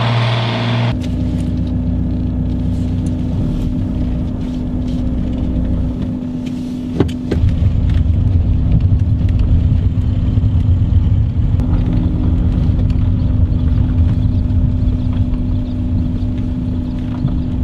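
DJI Mavic Pro quadcopter's propellers humming steadily at one pitch, with gusty wind rumbling on the microphone, heavier from about seven seconds in.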